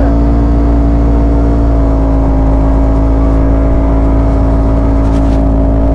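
Motor vehicle engine running loud at a steady, unchanging pitch, with a deep rumble beneath it.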